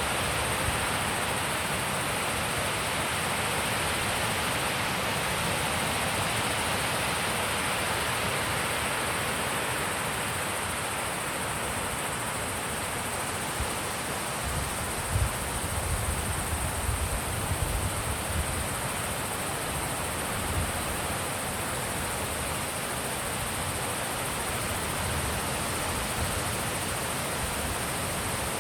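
Wind blowing, a steady rushing, with a few low gusts buffeting the microphone around the middle.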